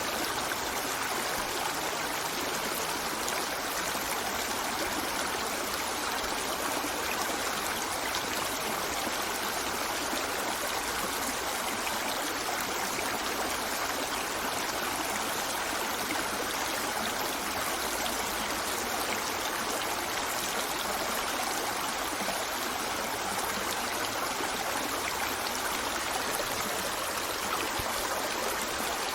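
A stream running over rocks: a steady rush of flowing water with no breaks or changes.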